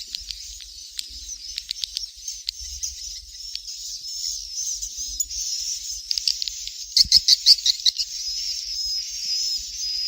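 Swiftlet chicks calling: a continuous high-pitched twittering laced with rapid clicky chirps, with a louder run of about eight sharp chirps around seven seconds in. It is a swiftlet call recording of the kind played to draw swiftlets to roost and nest.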